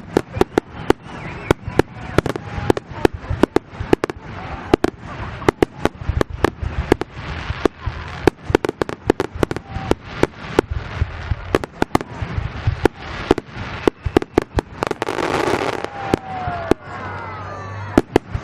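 Fireworks display: shells bursting in rapid, continuous bangs, several a second. About fifteen seconds in there is a louder crackling hiss lasting about a second.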